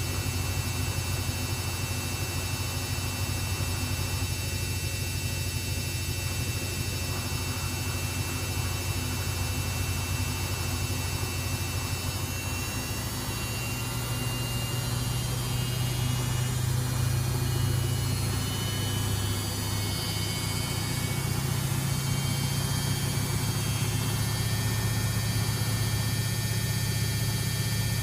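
Samsung WF6700 front-loading washing machine running, a steady low motor hum from its AC brush motor. The hum steps up in pitch about halfway through and shifts again a few seconds later, as the drum changes speed.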